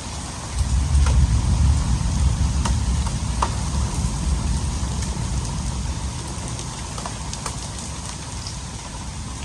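Heavy rain falling, with scattered sharp ticks of hailstones striking. Under it runs a strong, uneven low rumble that swells about half a second in.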